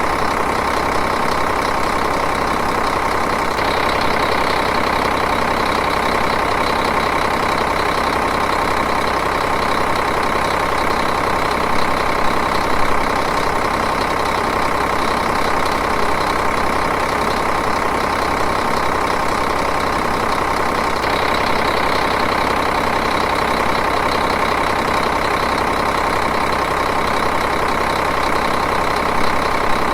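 Diesel engine idling steadily at an even rhythm.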